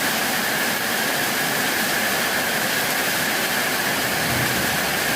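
Heavy rain pouring down in a steady downpour from a tropical storm.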